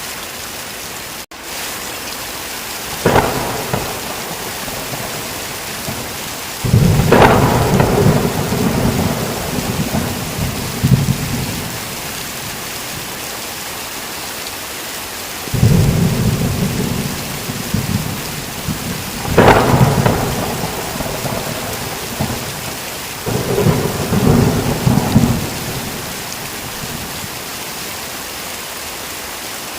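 Steady heavy rain hissing, broken several times by thunder: sharp claps a few seconds in, near the middle and again later, each followed by or alongside low rolling rumbles lasting a few seconds. The rain cuts out for an instant about a second in.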